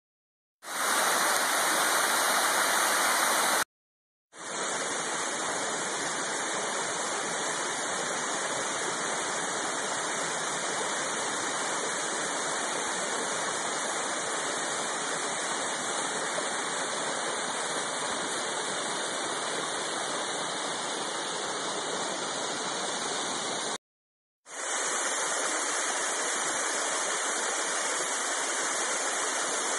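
Mountain waterfall rushing: steady, even water noise, cut off briefly twice as one waterfall clip gives way to the next.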